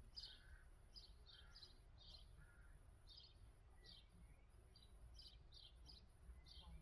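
Faint birdsong: short chirps repeated about twice a second over quiet low background noise.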